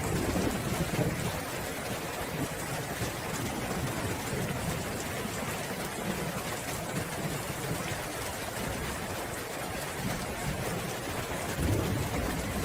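Steady rain falling, with a low roll of thunder right at the start and another near the end.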